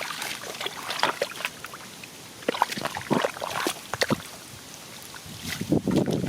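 Shallow water splashing and sloshing in short irregular bursts, as someone moves through a flooded rice field. The splashing grows louder and heavier near the end.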